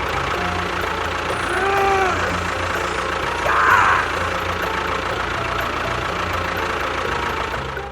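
An engine running steadily at idle. About two seconds in there is a short rising-and-falling tone, and just before four seconds a brief, louder sweep.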